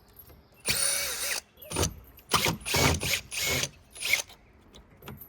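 Cordless drill running in short trigger bursts, backing screws out of the wooden climbing wall: one longer whirring burst about a second in whose whine dips and rises, then four or five quicker bursts.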